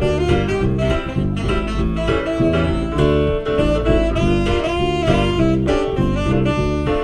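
Live band playing a jazzy tune, a saxophone carrying the melody over guitar and bass with a steady beat.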